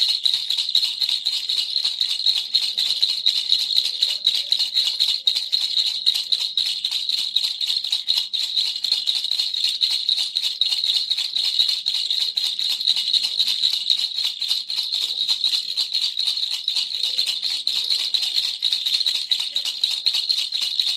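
Baby's toy rattle shaken continuously: a fast, even, high-pitched clatter of small beads inside, without a break.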